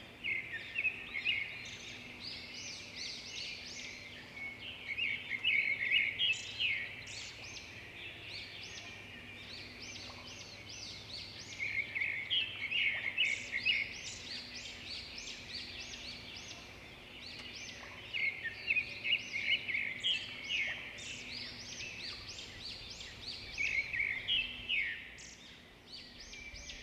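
Zebra finches calling: many short chirping calls come in busy bursts, with brief quieter spells between them, over a faint steady hum.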